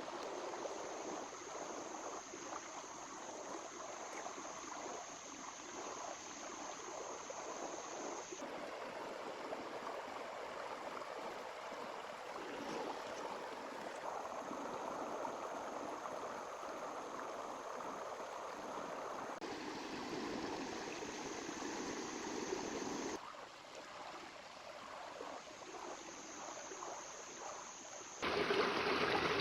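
A small river running over rocks, an even rushing with gurgling. Its level and tone jump abruptly several times and it is loudest near the end, with a thin high steady tone in some stretches.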